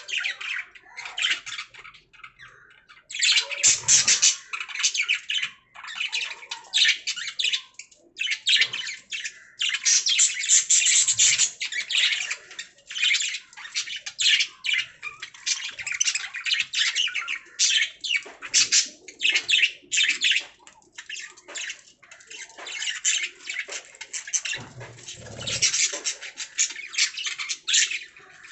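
Budgerigars (pet parakeets) chirping and warbling in rapid, continuous chatter with short squawks, with a few soft low knocks mixed in.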